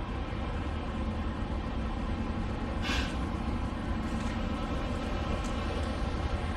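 Semi truck's diesel engine running steadily with a low rumble, with a short hiss about three seconds in.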